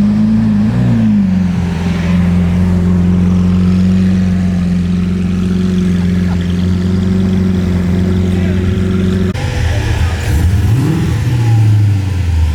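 A car engine running at a steady pitch for about nine seconds, then an abrupt change into revving that rises and falls twice.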